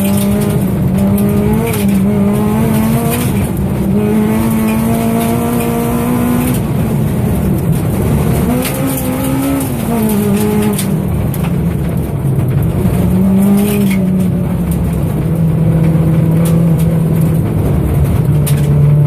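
Citroën C2 rally car driven hard on gravel, its engine revving up and dropping back again and again through gear changes and lifts. Gravel noise and scattered sharp cracks run underneath.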